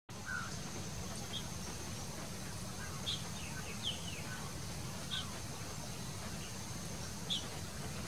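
Short, high bird chirps come every second or two, mostly single notes with a few quick downward-sliding ones about four seconds in. Underneath run a steady thin high whine and a low rumble.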